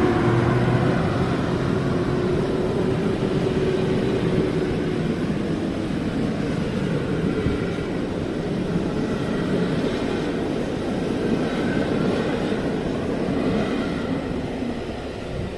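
POLREGIO regional passenger train running past on the rails, its noise slowly fading as it moves away, with a low tone sliding down in pitch early on.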